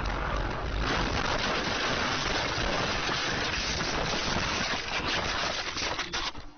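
Steady road and wind noise of a moving car, with a deep rumble in the first second, cutting off abruptly near the end.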